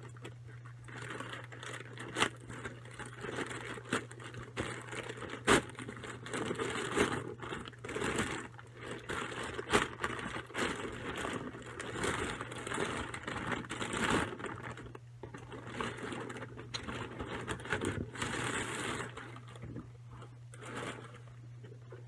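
A package being torn open and handled: cardboard and plastic packaging crinkling, tearing and scraping, with a few sharp clicks or knocks.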